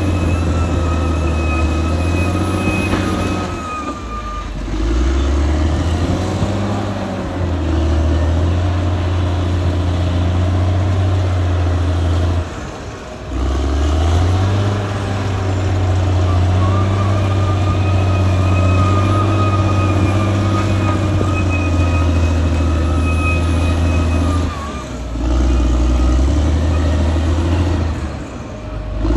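Caterpillar D6R XL bulldozer's diesel engine working hard, with a thin steady whine above the engine note. The engine note drops and recovers about four times.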